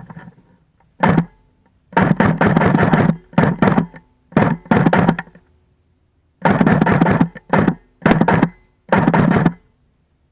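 Airsoft guns firing on full auto in about nine short bursts, each a rapid run of shots over a low buzz, separated by brief pauses.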